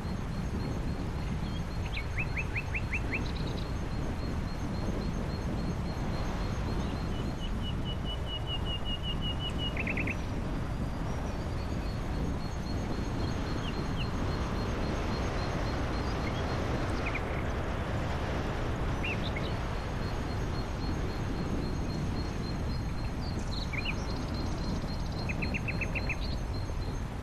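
Birds chirping: short calls and quick trills of several rapid notes, repeated at intervals. Under them run a steady low rumble and a thin, continuous high-pitched buzz.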